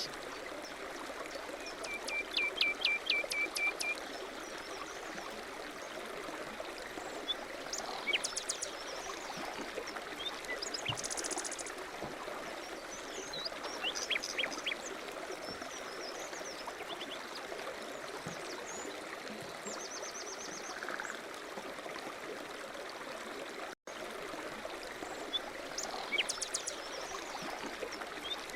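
Small birds chirping and trilling in short bursts over a steady rush of running water. The sound drops out for an instant near the end.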